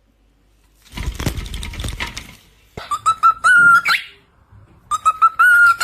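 Pet parrot whistling the same short tune twice: a few quick notes, then a held note ending in an upward swoop. Before it comes a brief burst of rustling.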